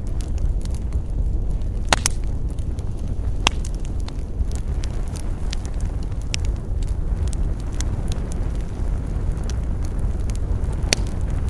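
Wood fire crackling: a steady stream of small pops and snaps, with sharper cracks about two seconds in, about three and a half seconds in and near the end, over a constant low rumble.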